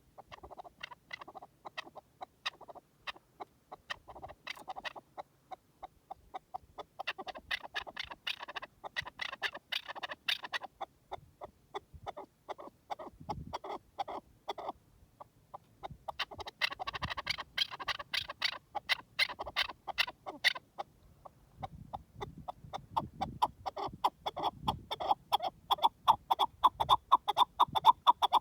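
Chukar partridge calling: long runs of rapid clucking notes, several a second, that swell in bouts and grow loudest toward the end.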